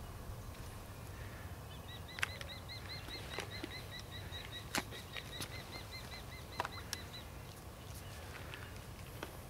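A bird calling a rapid series of short, high chirps, about five a second, starting about two seconds in and stopping about two seconds before the end. Scattered sharp clicks and a low rumble sit underneath.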